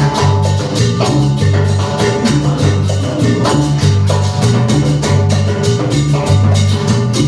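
Live band playing Latin dance music, with a prominent electric bass line of repeating held notes and a steady percussion beat.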